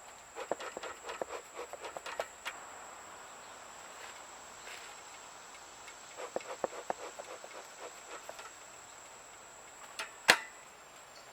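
Clusters of small clicks and rattles from handling gear, with one sharp, loud click near the end, over a faint steady high-pitched tone.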